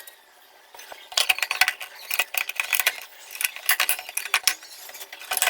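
Quick, irregular light metallic clicks and clinks of the flood light's parts being handled and fitted back together, starting about a second in.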